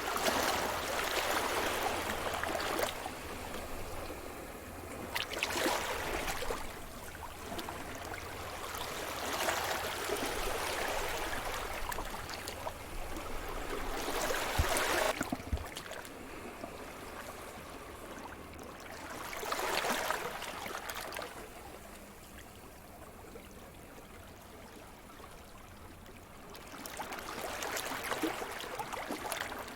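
Sea surf: waves breaking and washing up the shore, one surge after another every few seconds, with a quieter lull about two-thirds through.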